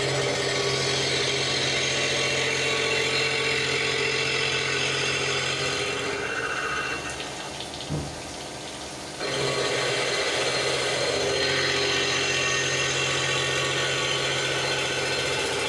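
CNC milling machine running and cutting metal with a steady hum and whir. Partway through the sound drops away for about three seconds, with a single click, then the cutting resumes.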